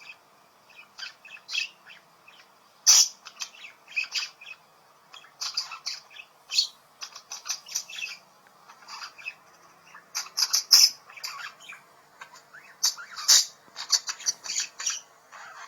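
Budgerigar chirping and chattering in quick, irregular bursts of short, sharp calls, with brief pauses between runs.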